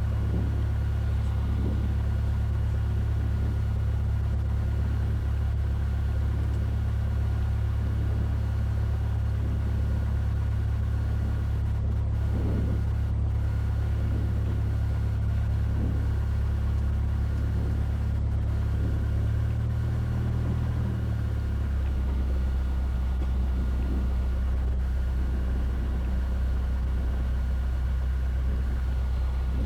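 Cessna 172F's six-cylinder Continental O-300 piston engine running steadily at low power as a steady low drone while the plane taxis. About twenty seconds in, the pitch shifts briefly and then settles a little lower.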